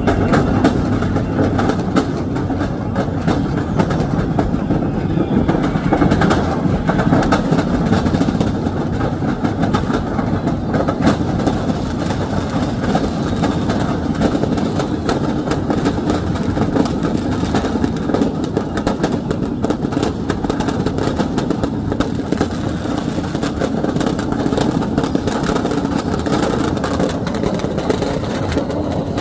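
Steady traffic noise of vehicle engines running, with many short clicks and knocks through it.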